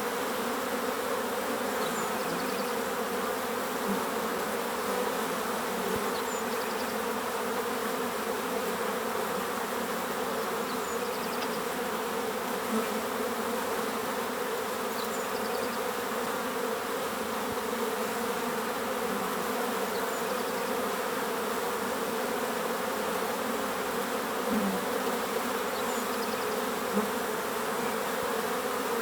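Many bees buzzing in a steady, unbroken drone, with a faint short bird call repeating every few seconds.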